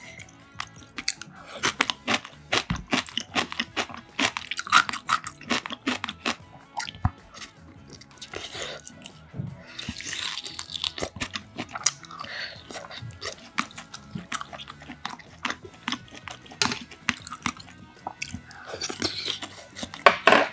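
A person chewing and biting food close to the microphone: many quick, sharp, irregular clicks and wet mouth sounds of mouthfuls being chewed.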